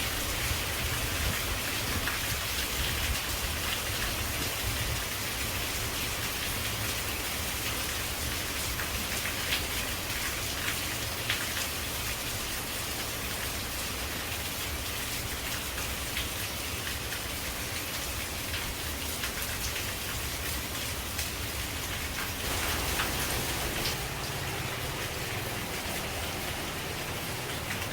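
Rain falling steadily on leaves, with scattered sharper drips standing out.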